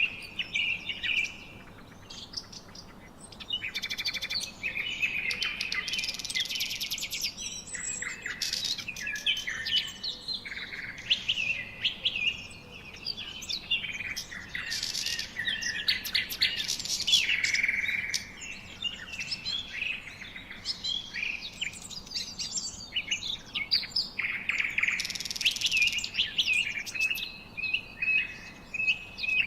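Several birds chirping and singing at once, a dense, unbroken stream of short chirps, fast trills and whistles.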